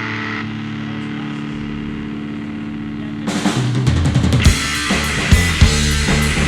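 Live rock trio. A distorted electric guitar holds a sustained ringing note through its amp, and about three seconds in the drum kit and bass guitar come in as the band starts a song, with kick and snare hits.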